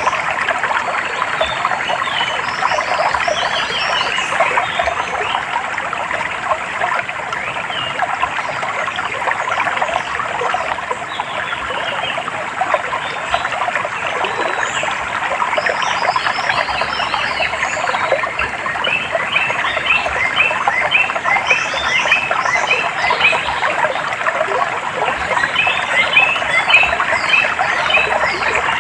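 Water trickling and gurgling steadily, like a small stream, with birds chirping over it; in the second half the chirps come in quick repeated runs.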